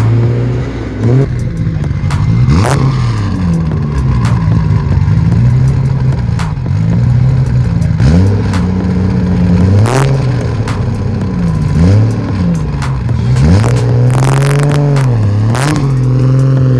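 A car engine revved again and again, its pitch climbing and dropping every second or two, with a few sharp cracks between revs.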